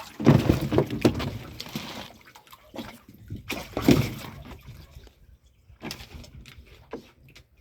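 Water sloshing and splashing in a water tank, in two bouts: a longer one starting just after the start and a shorter one about four seconds in, then only scattered small splashes.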